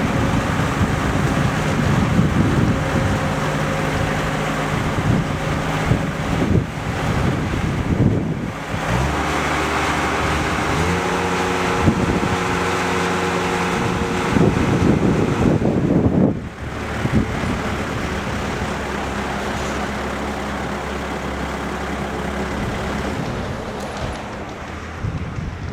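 Bobcat S160 skid steer loader's diesel engine running, its pitch stepping up and down several times as the revs change, with a louder rougher stretch about two-thirds of the way through.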